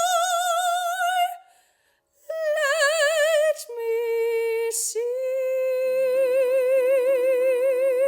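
Solo female voice singing in a classical musical-theatre style with wide vibrato: a held note breaks off after about a second, then after a short pause come two shorter notes and a long final note held for about four seconds. Piano chords enter underneath about six seconds in.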